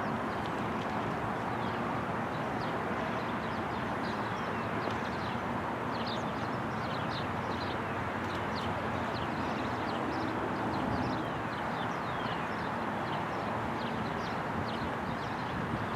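A train rolling past with a steady rumble of wheels on rail, while birds give many short, quick chirps.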